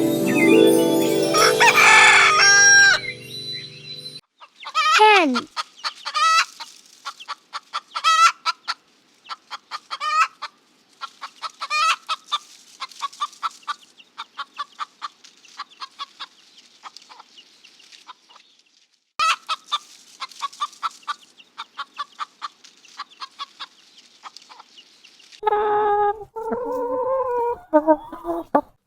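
Chickens clucking in a long series of short, quick calls, after a brief musical opening and a voice saying "hen". Near the end comes one longer, wavering call of about three seconds, a rooster's crow.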